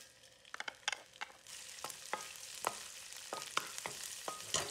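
Diced dried shrimp frying in oil in a wok, sizzling, while a wooden spatula stirs it with scattered taps and scrapes against the pan. The sizzle sets in and grows louder about a second and a half in.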